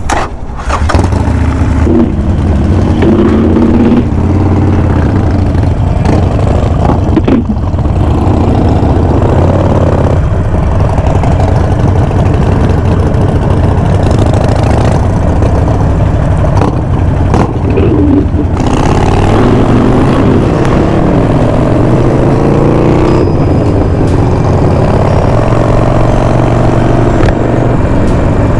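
Motorcycle engines running as a group rides off, revving up and dropping back several times with gear changes over a steady low rumble.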